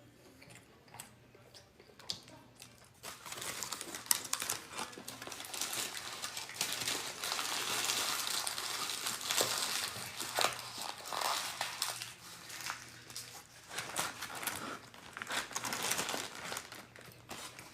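Food packaging being crumpled and rustled by hand, starting about three seconds in and going on with many sharp crackles.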